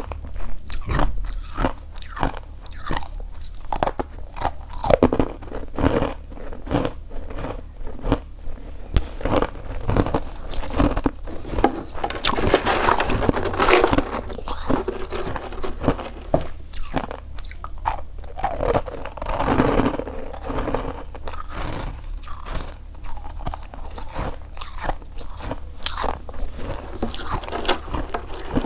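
Close-miked biting and chewing of freezer frost: a steady run of sharp crunches, with longer stretches of dense, grinding chewing near the middle and again about two-thirds of the way through.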